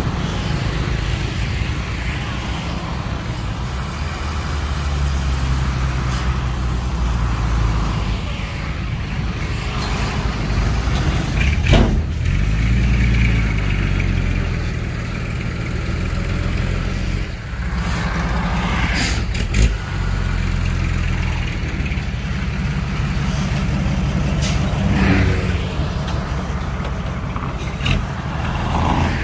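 Heavy diesel engine of a dump truck running steadily at low revs, its pitch shifting a little, with a few short sharp knocks and hisses along the way.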